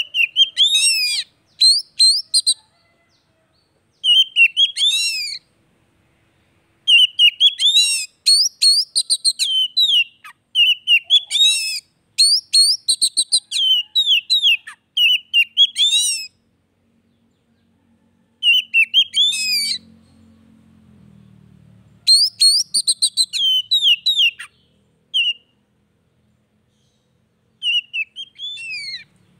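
Oriental magpie-robin (kacer) singing loud bursts of quick, high, sweeping whistles and chirps. The phrases are broken by pauses of a second or two, with a longer gap a little past the middle.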